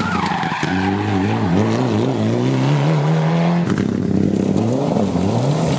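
Rally car engine revving hard under throttle, its pitch dipping and rising, then climbing steadily before a sudden drop about two-thirds of the way through and a climb again near the end.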